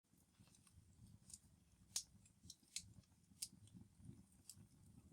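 Wood fire crackling faintly: irregular sharp pops and snaps over a low rumble of flames, the loudest pop about two seconds in.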